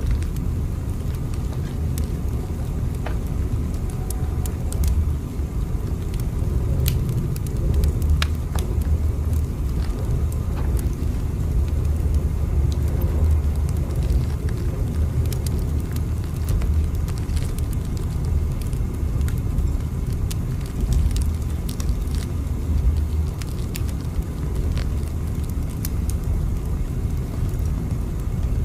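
Steady low rumble of a train running, with faint clicks and ticks scattered over it.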